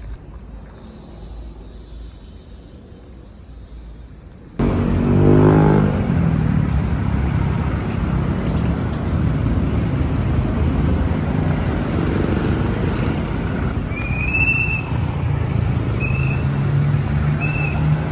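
Road traffic close by: vehicle engines running and passing. A quieter low rumble gives way abruptly to loud traffic about four and a half seconds in, with three short high chirps near the end.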